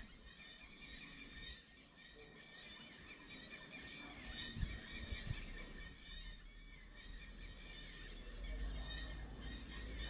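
Several birds chirping and calling over one another in a steady high chorus, with a couple of soft low thumps about halfway through and a low rumble building near the end.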